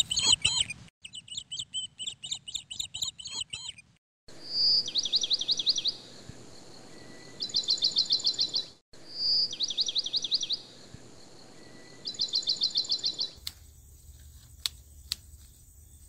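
A songbird singing: a run of quick down-slurred whistled notes followed by a faster trill, given twice. Near the end come a few sharp clicks.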